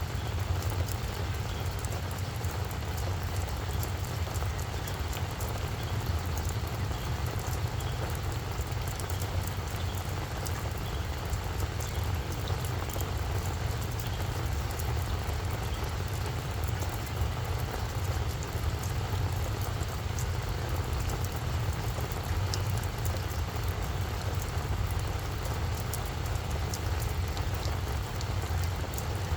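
Steady rain falling, with a constant patter of drops ticking. A low, even rumble runs underneath.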